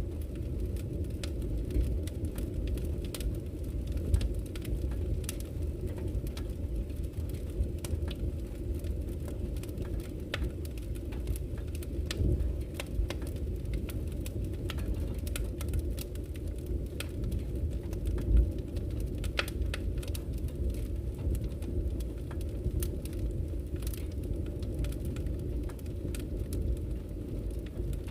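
Wood fire burning in a fireplace: a steady low rumble of flames with frequent crackling, and a few louder pops from the burning logs.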